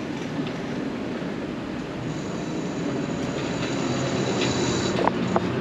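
Elevator machinery running as the car arrives: a steady mechanical hum with a thin high whine that grows slightly louder, and a few sharp clicks near the end.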